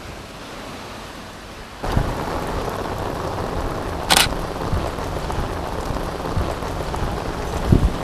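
Steady hiss of rain that gets suddenly louder about two seconds in, with a single sharp click of the Fujifilm X-Pro2's shutter about four seconds in and a dull thump near the end.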